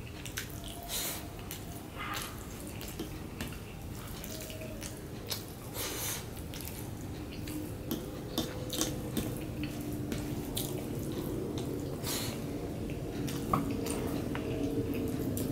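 Wet chewing and mouth sounds of a person eating rice mixed with mashed bhorta by hand, with scattered short smacks and clicks as the fingers work the rice on a steel plate.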